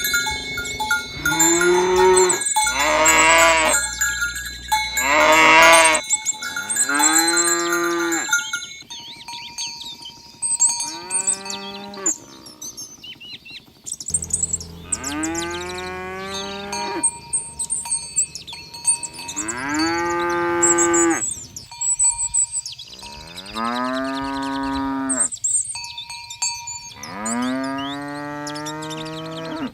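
Cattle mooing again and again: about nine long calls from a herd, each rising and then falling in pitch, with short gaps between them.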